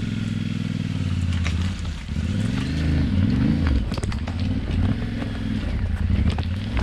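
Adventure motorcycle engine pulling at low speed through a soft, rough obstacle. It runs steadily at first, then the revs rise and fall with bursts of throttle, with scattered knocks and clicks.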